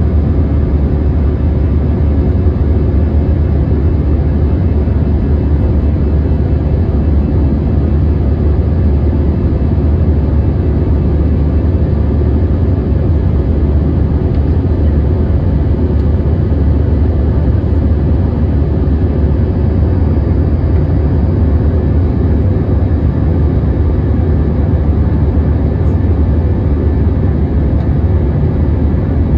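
Airbus A321 jet engine noise heard from inside the passenger cabin: a steady, deep rumble that holds level throughout.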